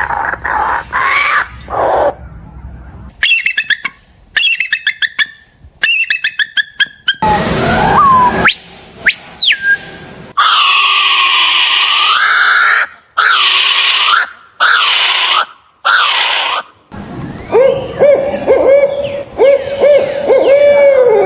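A series of different bird calls cut one after another: rapid repeated notes, a long rising and falling whistle, harsh drawn-out calls, and a run of lower, repeated calls near the end, with abrupt breaks between clips.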